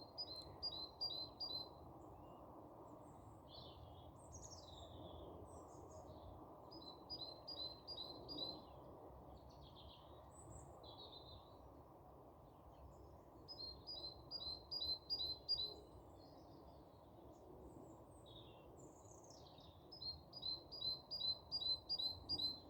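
Wild birds singing. One bird repeats a quick run of six to eight identical notes about every six or seven seconds, four times, with scattered chirps and whistles from other birds in between, over a steady low background noise.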